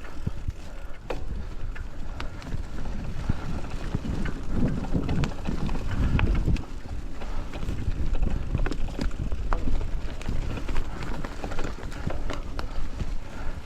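Dry fallen leaves rustling and crunching along a forest trail, with many irregular small clicks and knocks, over a low rumble on the microphone.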